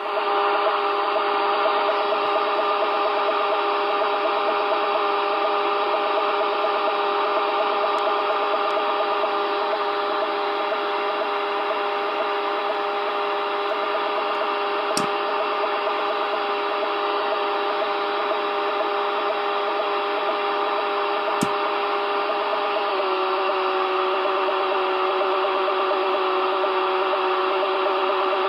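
Unidentified signal received on a shortwave radio near 28.105 MHz in the 10-metre band, coming in through the antenna: several steady tones over hiss, one with a fast pulsing flutter. About 23 seconds in, the tones step slightly lower, and two brief clicks come through partway along.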